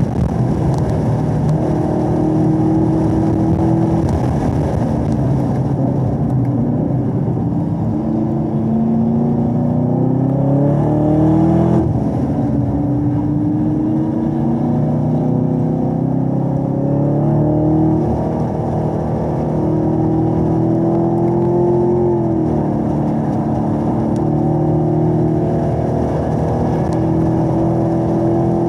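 Supercharged V8 of a 2017 Chevrolet Camaro ZL1 with ten-speed automatic, heard from inside the cabin at speed. The engine note falls as the car brakes and shifts down for a slow corner. It then rises under hard acceleration, with sudden drops in pitch at the upshifts.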